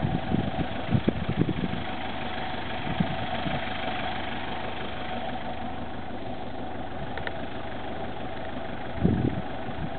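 Hyundai Galloper's engine idling steadily, with a few short low thumps in the first couple of seconds and again near the end.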